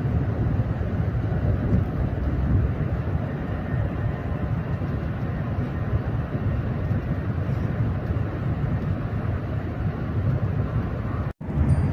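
Steady low rumble and rushing noise of a high-speed train running at full speed, around 350 km/h. The sound cuts out for a moment near the end.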